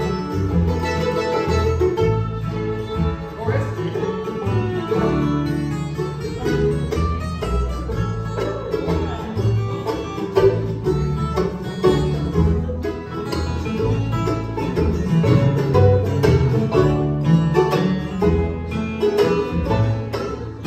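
A live bluegrass band playing, with banjo picking over guitar and a steady run of low bass notes.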